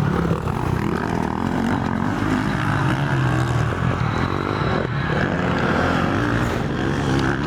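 Motocross motorcycle engines running on the track, their pitch wavering up and down as the riders work the throttle.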